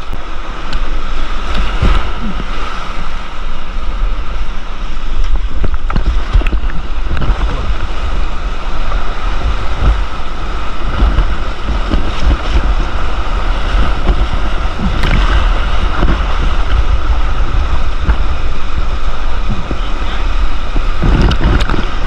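Rushing whitewater around a kayak, a steady loud rush with wind buffeting the microphone, broken by a few short sharp knocks.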